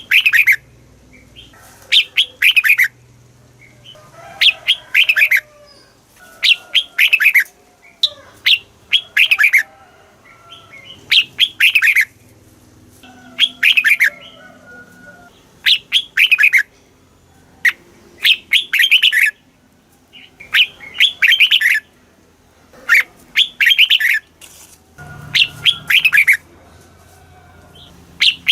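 Red-whiskered bulbul singing: short, loud phrases of a few quick whistled notes that fall in pitch, repeated about every two seconds.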